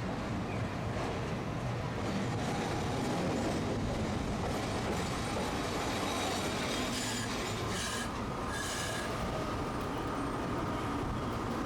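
Tosaden streetcar running on street track with steady wheel-and-rail rumble. Its wheels squeal briefly about two-thirds of the way in.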